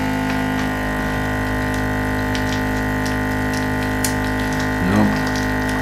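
Vacuum sealer's pump motor running steadily, with an even hum of constant tones, while the bag fails to catch; the owner blames the bag.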